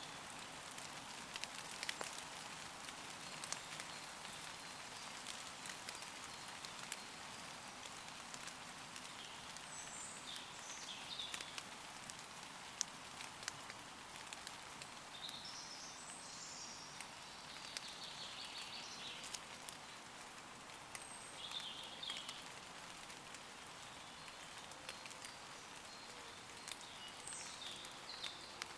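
Steady light rain falling on leaves, with scattered sharp drips, and distant woodland birds giving short high calls several times.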